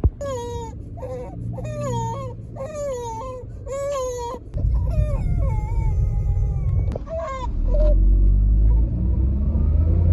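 Infant crying in a series of short wailing cries that stop about three quarters of the way through, over a low rumble that grows louder about halfway through.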